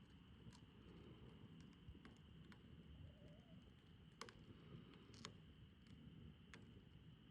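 Faint crackling of a wood campfire: sparse sharp pops and snaps of burning wood, three louder ones in the second half, over a low steady rumble and a thin steady high tone.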